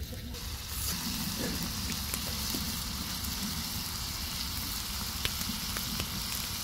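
Chopped tomatoes and onions frying in oil in a pan: a steady sizzling hiss, coming up about a second in, with scattered small pops.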